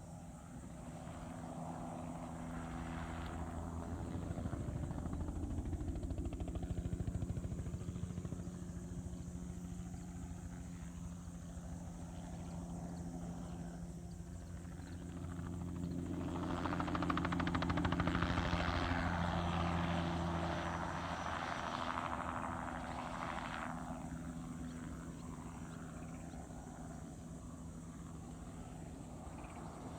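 Crop-spraying helicopter flying past, its rotor and engine hum growing louder and fading twice, loudest a little past the middle.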